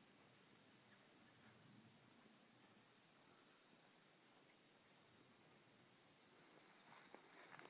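Steady, faint high-pitched chorus of insects trilling without a break, a little louder near the end, with a few faint rustles.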